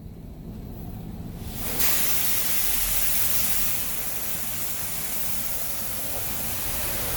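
Touchless automatic car wash spraying water onto the van, heard as a steady hiss of spray. It starts suddenly about two seconds in and eases a little halfway through, over a low rumble.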